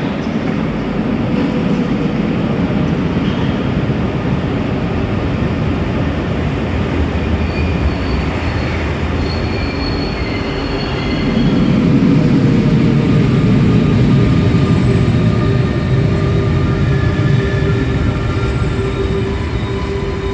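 RER A train in an underground station, a rumbling run with high wheel and brake squeals coming and going, growing louder about eleven seconds in. A steady whine from the train's traction equipment runs through the second half.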